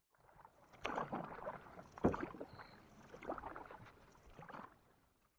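Canoe paddle strokes in lake water, splashing about once a second, with a sharp knock of the paddle about two seconds in. The sound cuts off suddenly near the end.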